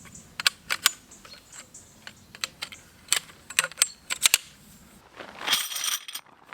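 Metal tent pegs clicking and clinking together as they are handled: a run of sharp separate clicks, then a brief ringing metallic jangle near the end.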